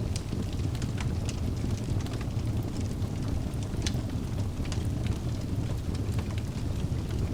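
Wood fire burning in a fireplace: a steady low rumble of flames with scattered sharp crackles and pops from the burning logs, one louder pop about four seconds in.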